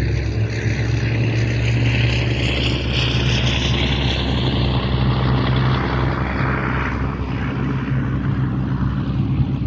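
An aircraft passing overhead: a loud, steady low engine drone with a high whine that slowly shifts in pitch.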